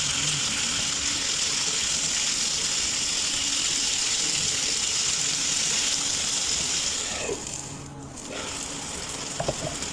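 Cubed chicken breast sizzling in butter in a frying pan, a steady hiss. It drops away for about a second near the end, then comes back more quietly.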